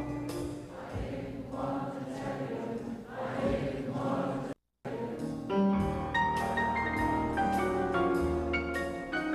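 Television programme music, a choir with mallet percussion, from a cable TV broadcast. About halfway through, the audio drops out completely for a split second and then comes back: a glitch in the TV signal.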